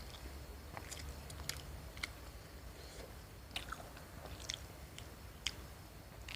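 Close-miked chewing of a fried snack: irregular soft crunches and wet mouth clicks, a couple a second.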